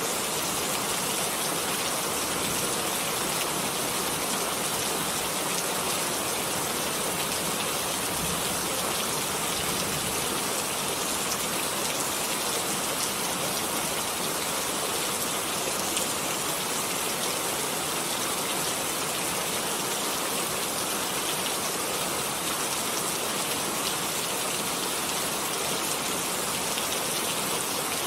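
Steady rainfall: a dense, even hiss of rain with fine patter of drops.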